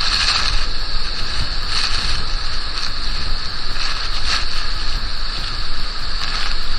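Loud, steady rushing noise with a deep rumble underneath.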